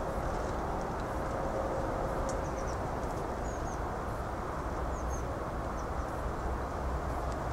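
Steady low background rumble with a few faint, high bird chirps in quick pairs from about two seconds in.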